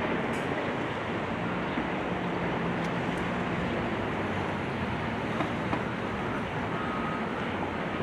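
Steady mechanical rumble of heavy machinery, with a low engine hum and a few faint clicks.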